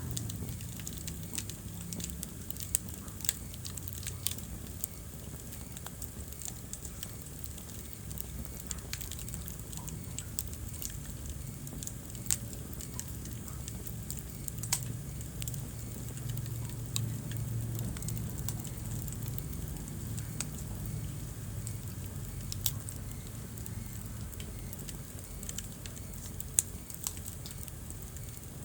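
Wood fire burning in a fireplace, crackling steadily with scattered sharp pops over a low steady rumble.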